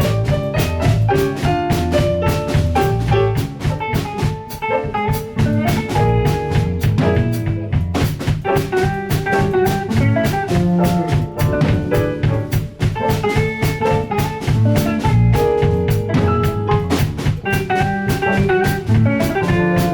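Instrumental jazz music with a drum kit keeping a steady beat under pitched instruments.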